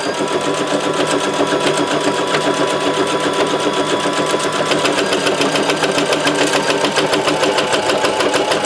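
Electric sewing machine running steadily at speed, stitching a straight seam, with a rapid, even needle rhythm.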